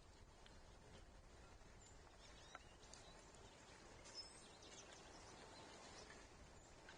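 Near silence: faint outdoor background hiss with a few faint, distant bird chirps and two small clicks about two and a half and four seconds in.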